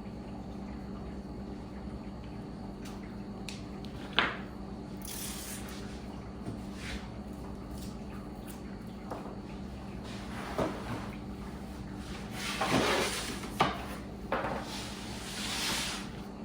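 Kitchen work sounds over a steady low hum: a sharp knock about four seconds in, then scattered clicks and clatters and a few short rushing swishes, like handling dishes and running water.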